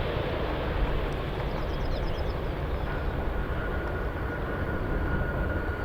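Airbus A330-200's GE CF6-80E1 jet engines rolling out along the runway after landing: a steady rumble, with a faint high whine coming in about halfway through.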